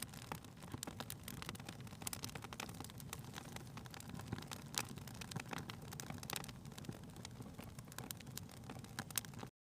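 Wood fire crackling in a fireplace: irregular small pops and snaps over a low rumble. It cuts off abruptly near the end.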